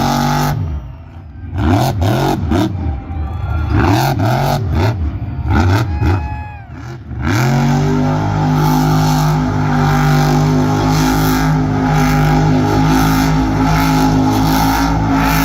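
Monster truck's supercharged V8 engine revved in a string of quick rises and falls, then from about seven seconds in held steady at high revs.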